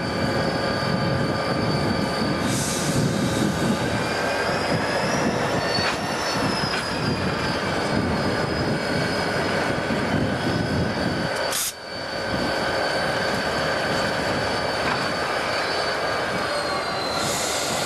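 Conrail freight cars rolling past, their steel wheels squealing in several steady high tones over the rumble of the train. The sound dips briefly about two-thirds of the way through.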